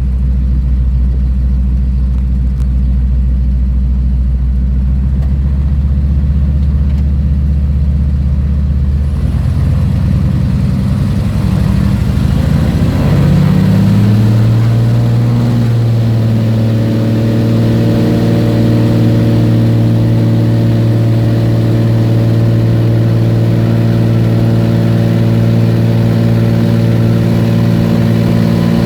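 Floatplane's propeller engine running steadily low, then throttling up about ten seconds in. The pitch climbs over a few seconds and settles into a steady, higher full-power takeoff run.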